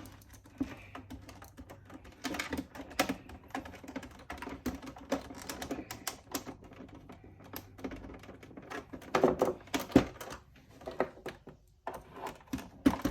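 Irregular small clicks, taps and knocks of a screwdriver and hands working on a plastic toy saxophone housing during reassembly, with a sharper knock about ten seconds in.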